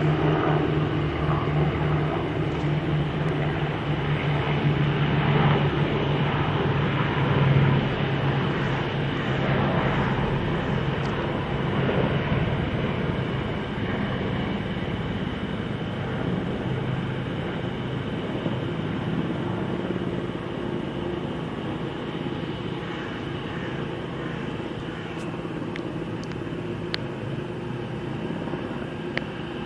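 Two military helicopters in flight: a steady low drone of rotors and turbine engines, loudest in the first half and slowly fading.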